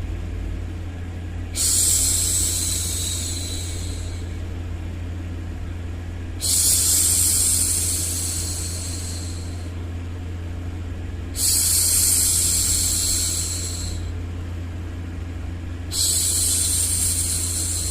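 A woman's long 'shhh' hushing sound, heard four times about five seconds apart, each starting suddenly and fading away over two to three seconds. Under it runs a steady low rumbling noise.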